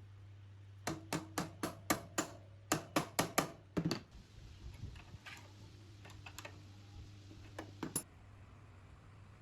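A quick run of about a dozen sharp, slightly ringing clicks and taps in about three seconds, a few fainter ones after, and two more near the end, over a low steady hum.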